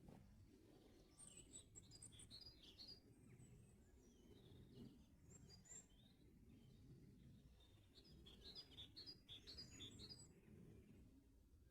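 Faint songbirds singing: short high chirps and trills in two flurries, one near the start and a busier one a couple of seconds before the end, over a steady low background rumble.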